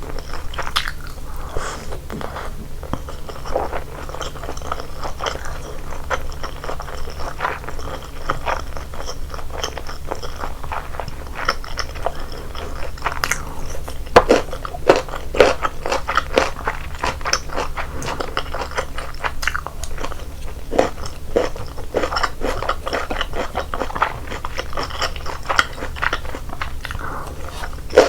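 A person chewing and biting food close to the microphone, wet chewing mixed with crunchy bites. The bites come thicker and louder about halfway through.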